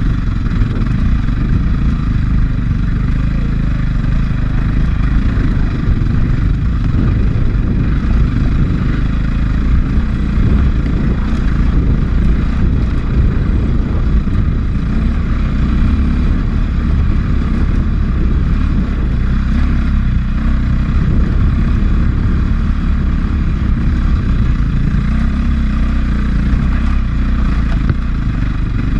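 A 450cc four-stroke enduro dirt bike engine running steadily under load on a trail ride, its pitch rising and falling a little with the throttle, heard from a helmet-mounted camera.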